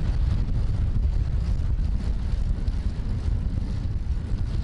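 Steady low rumble of wind buffeting the microphone while riding a bicycle at speed, with road noise underneath.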